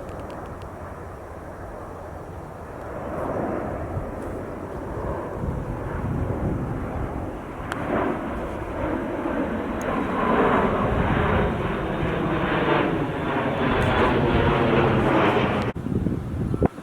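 Jet airliner's engines passing close by, the noise building steadily and loudest in the second half, then cutting off suddenly near the end.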